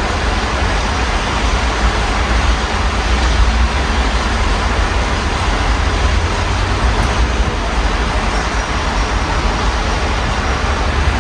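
Steady rain falling outside an open window, a constant even hiss, over a continuous low rumble of city traffic.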